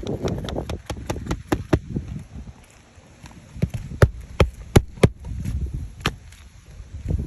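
Hammer work on asphalt roof shingles: a quick run of light taps, then a few harder, separate strikes, with wind rumbling on the microphone.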